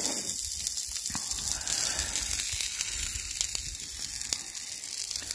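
Butter sizzling under a grilled cheese sandwich in an open cast-iron pie iron over a wood fire: a steady frying hiss with a few faint pops.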